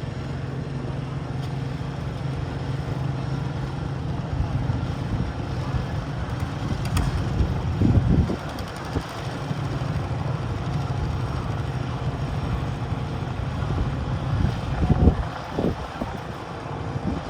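Garden tractor engine running steadily, with two brief louder surges, about halfway through and near the end.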